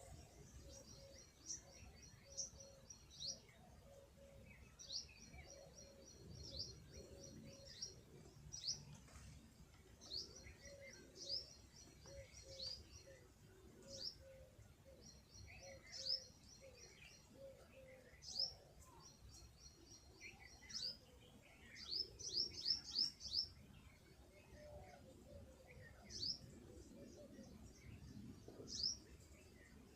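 Small birds chirping: short, high-pitched, rapid trills and quick downward-sweeping notes repeat every second or so, with a quick cluster of chirps a little past the two-thirds mark. A faint low note pulses evenly underneath for much of the time.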